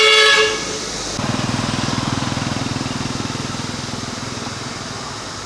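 A vehicle horn toots, ending about half a second in. Then a small engine, likely a passing motorbike, runs with a fast, even pulse and slowly fades.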